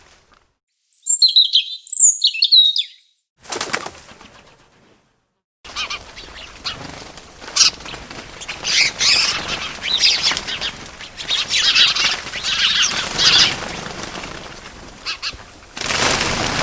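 Small birds chirping: a few quick calls about a second in, then from about six seconds on, a busy stretch of wing flapping mixed with chirps.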